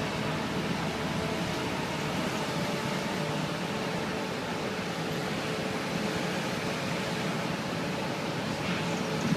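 Motorcycle engine running steadily, with an even hiss of wind and road noise over it.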